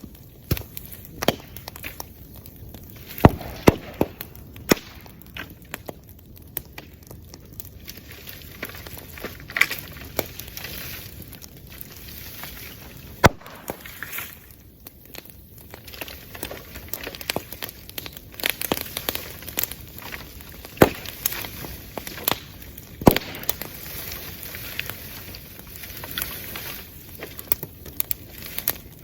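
Wood bonfire crackling, with irregular sharp pops and cracks over a steady low hiss; a few pops stand out louder than the rest.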